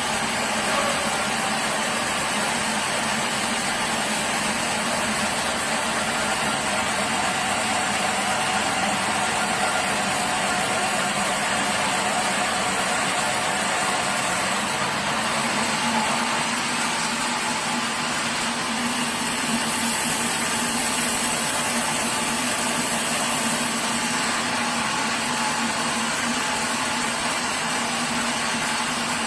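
Sawmill machinery running steadily: a constant engine hum under a dense mechanical noise, with no break.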